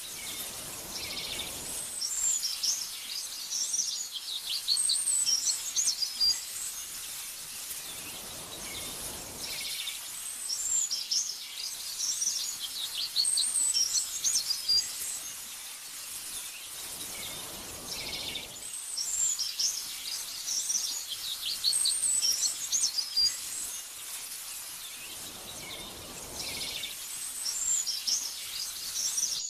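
Small birds chirping and twittering in rapid high bouts over a steady soft hiss, with a gentle whoosh of wind swelling before each bout. The pattern repeats about every eight and a half seconds, like a looped recording.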